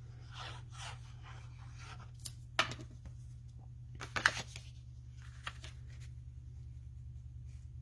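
Cardstock and patterned paper being handled, slid and pressed into place, a soft rustling with two sharp taps about two and a half and four seconds in, over a steady low hum.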